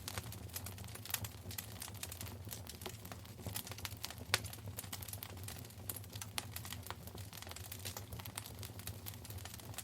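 Wood fire crackling in a fireplace: irregular small snaps and pops, with one louder pop about four seconds in, over a low steady rumble.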